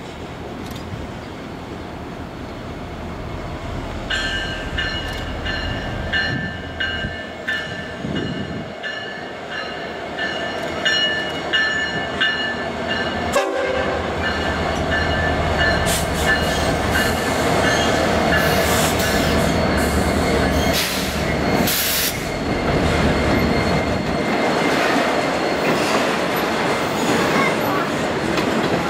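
An approaching freight train's lead locomotive sounds its horn in several blasts over about nine seconds. Then two Norfolk Southern SD70ACE diesel locomotives, EMD V16 two-stroke engines, run past loudly, followed by autorack freight cars rumbling over the rails with sharp wheel and rail clicks.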